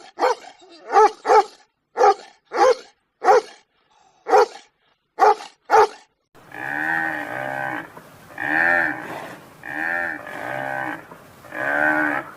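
Farm animal calls: about ten short, sharp bark-like calls in the first half, then a run of five longer, drawn-out cries of about a second each.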